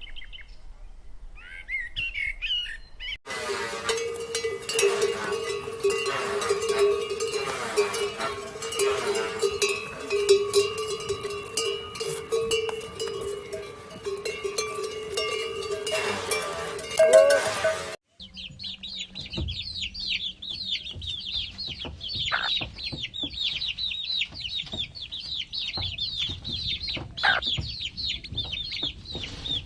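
Chickens and small birds calling in a run of separate recordings: a brief burst of chirping, then a dense, steady chorus of calls that stops abruptly about 18 seconds in, followed by a thick stream of high chirping or peeping.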